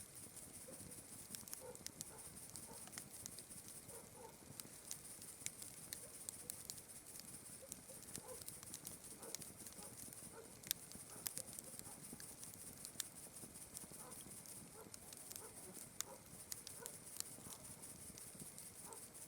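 Campfire crackling, with irregular sharp pops, over a steady high chirring of night insects. Short soft calls are scattered through it.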